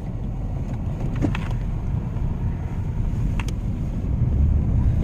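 Steady low rumble of a vehicle heard from inside its cabin, with a couple of faint light ticks.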